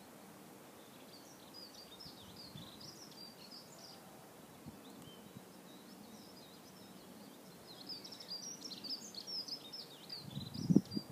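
Songbird singing two runs of quick high chirping notes, the second longer and louder, over a faint outdoor hiss. A short low rumble near the end is the loudest sound.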